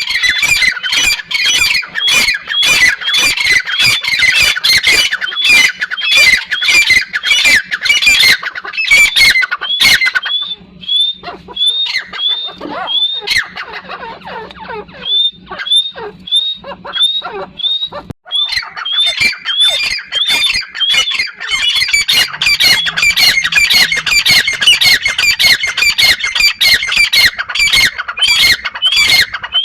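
Grey francolin calling: a fast, repeated run of high, harsh notes with rising whistled ends. About ten seconds in it thins to single upswept whistles, about two a second, then the full dense calling starts again at about 18 seconds.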